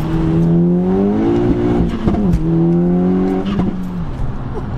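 Turbocharged 2.0-litre four-cylinder engine of a VW Golf GTI pulling under acceleration, heard from inside the cabin: its note climbs, dips at a gear change about two seconds in, pulls again, then eases off near the end.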